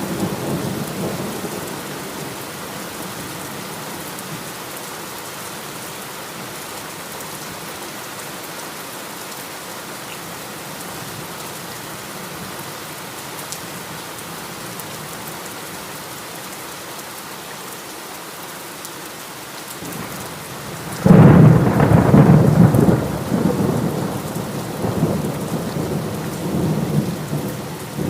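Steady heavy rain. A rumble of thunder fades in the first couple of seconds, and about three-quarters of the way through a sudden loud thunderclap breaks out and rolls on in waves of rumbling.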